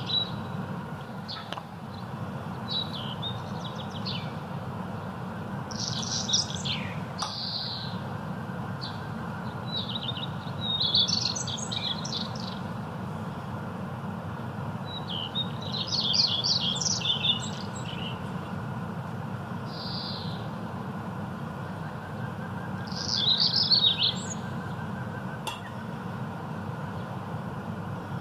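Small birds chirping and singing in short bursts of quick high notes every few seconds, over a steady low hum.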